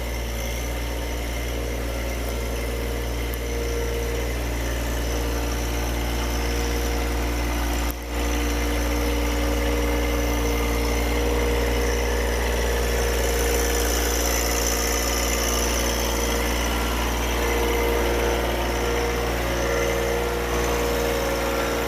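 Tractor engine running steadily, with a momentary drop in level about eight seconds in.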